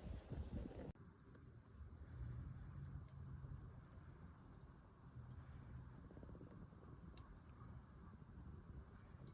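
Faint outdoor ambience: a low steady rumble with a few scattered faint crackles, and two runs of rapid, repeated high-pitched chirping.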